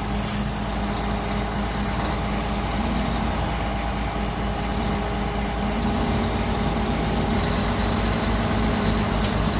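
Heavy diesel truck engine running steadily, a low even hum that holds its pitch, while the stuck loaded dump truck is pulled out in first gear.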